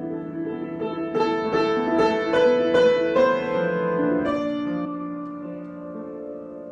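Solo piano improvisation: held chords, a run of struck notes climbing over them from about a second in to about four seconds, then the notes sustaining and slowly fading.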